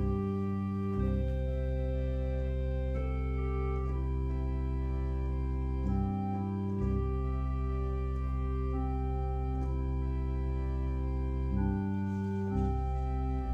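Organ playing slow, sustained chords over a deep bass, the chords changing every few seconds.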